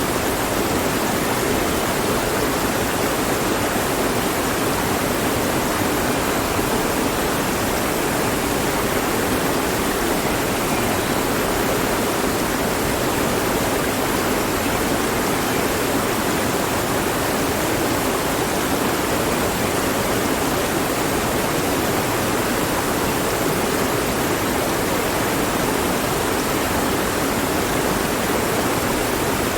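Mountain stream rushing steadily over rocks, a constant even wash of water with no breaks.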